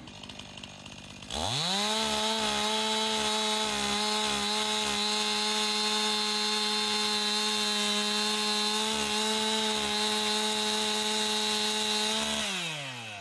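Two-stroke chainsaw revving up about a second in and running at steady high revs for about eleven seconds, then winding down near the end.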